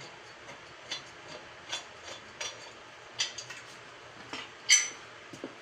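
Scattered metal clicks and light knocks as tools and mower blade parts are handled, with one louder metallic clank that rings briefly about three-quarters of the way through.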